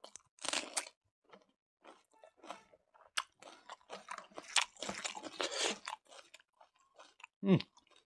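Close-up chewing of a mouthful of rice and smoked pork, in irregular spurts of crunching. Near the end comes a short hum that drops in pitch, the loudest sound.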